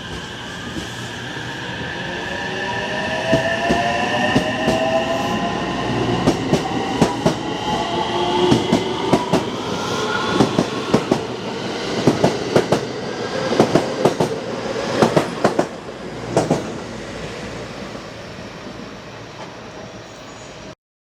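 JR West 225 series eight-car electric train pulling away and gathering speed, its inverter-driven traction motors giving several whines that rise in pitch. Wheels click rapidly and rhythmically over the rail joints as the cars pass, then the sound fades and cuts off near the end.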